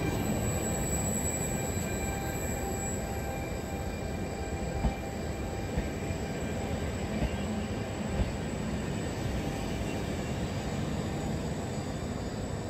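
Trenord double-deck electric passenger train running past the platform: a steady rumble of wheels on rail with a faint steady whine, and a few single clacks over rail joints about halfway through.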